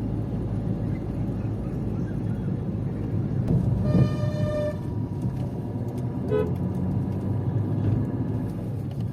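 Road traffic rumbling steadily, with a vehicle horn honking for about a second around four seconds in and a short second honk a couple of seconds later.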